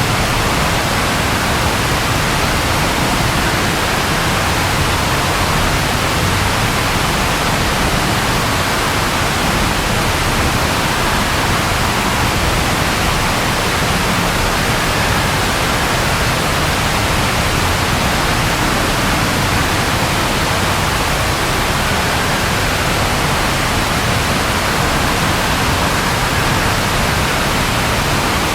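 Steady rain falling, an even hiss with no thunder clap in it.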